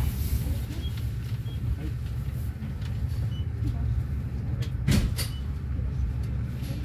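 Finnish InterCity passenger train running, heard from inside the carriage as a steady low rumble, with a sharp knock about five seconds in.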